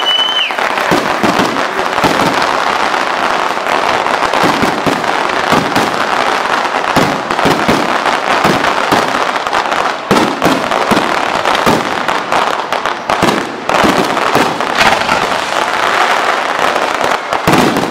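Fireworks display: a dense, continuous crackling and popping of many shells and effects bursting at once. A high whistle fades out about half a second in.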